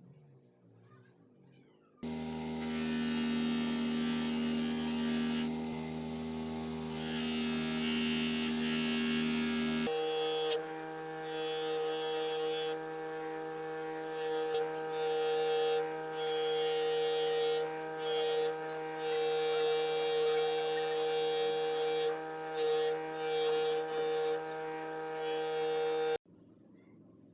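Small electric power tool motor running steadily, used in restoring a rusty pruner. It starts abruptly, changes to a different steady pitch about a third of the way in, carries a hiss that comes and goes, and cuts off abruptly near the end.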